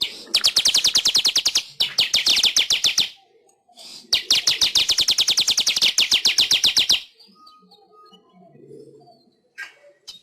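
Manyar (weaver bird) singing: three bursts of a rapid, dry chattering trill at about a dozen notes a second, the last and longest lasting about three seconds, then only faint scattered sounds.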